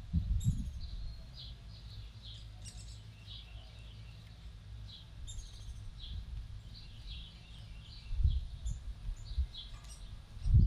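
Small birds chirping with many short, high calls, over a low rumble broken by louder low thumps near the start and again near the end.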